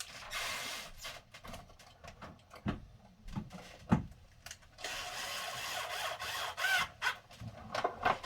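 Hand work on a wiring terminal: scraping and rubbing noises in two stretches, with a series of sharp clicks and knocks, the loudest about four seconds in.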